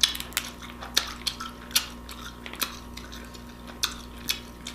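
Crab legs being cracked and picked apart while eating: a series of sharp shell cracks and clicks at irregular intervals, with wet eating sounds, the loudest crack right at the start.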